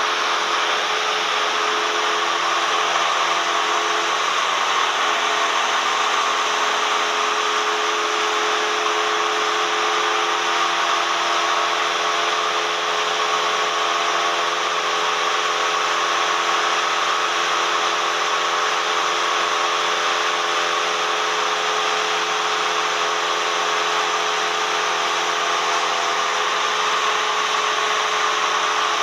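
Cessna 172M's four-cylinder Lycoming O-320 engine and propeller running at a steady, unchanging drone, heard from inside the cockpit with airflow noise, in flight.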